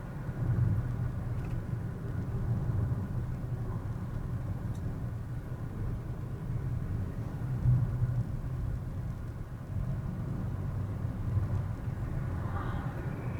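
A car driving: steady low road and engine rumble heard inside the car, swelling a little now and then.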